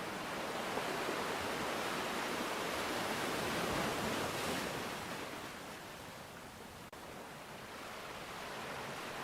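Rushing water noise that swells up to a peak about four seconds in and then dies back down, with a brief click and dropout about seven seconds in.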